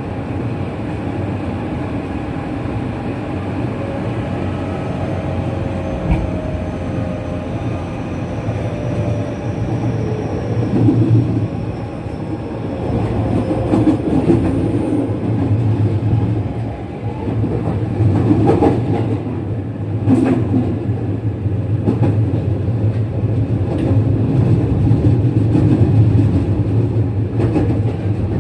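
JR West 207 series electric train heard from inside the car: the VVVF inverter and its original, unmodified traction motors whine in falling tones as the train slows on its approach to a station. Over a steady low rumble the wheels then clack over rail joints and points several times.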